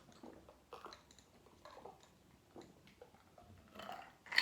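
Faint close-up chewing and mouth noises, with scattered small clicks and one sharper click near the end.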